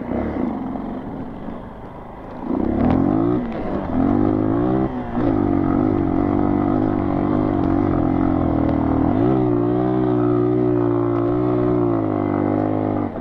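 Small single-cylinder four-stroke dual-sport motorcycle engine under hard throttle climbing a sand hill. Its pitch climbs and drops through a few gear changes, then holds steady under heavy load as the sand takes the bike's speed, and falls away near the end.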